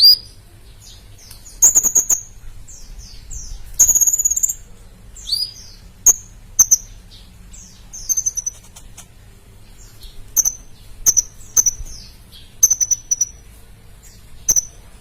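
A sunbird calling vigorously: short, high, sharp chirps and quick down-slurred notes, in bursts every second or so, several of them loud.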